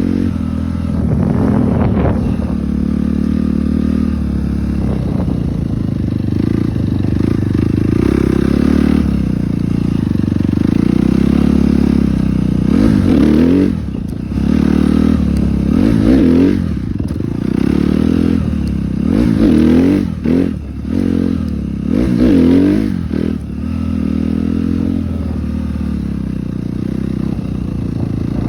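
2012 Suzuki RM-Z250's single-cylinder four-stroke dirt bike engine running under way, the revs rising and falling repeatedly through the middle of the stretch.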